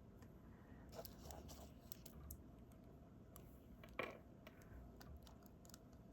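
Faint, irregular clicks and taps of a diamond-painting drill pen picking up resin drills and pressing them onto the canvas, with one sharper tap about four seconds in.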